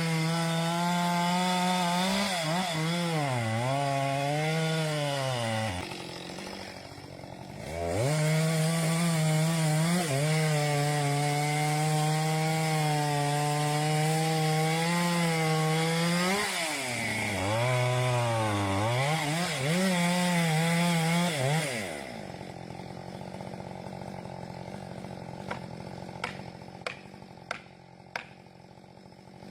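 Chainsaw running at high revs while cutting through a large trunk, its pitch sagging and recovering under load. The engine drops away about six seconds in, revs back up two seconds later and cuts on, then falls away about 22 seconds in. A lower steady sound with a few sharp knocks or cracks follows near the end.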